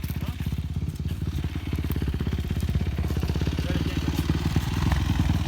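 Motorcycle engine running with a fast, even beat that grows louder toward the end.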